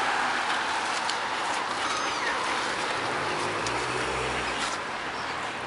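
Outdoor ambience of steady distant traffic, with a few short bird chirps about two seconds in and the low hum of a passing vehicle engine around four seconds.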